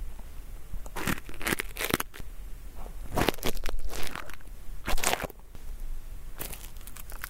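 Ear pick scraping inside an ASMR microphone's ear: irregular dry, crackling scratches, as if stuck earwax is being picked loose, turning into a dense run of crackling near the end.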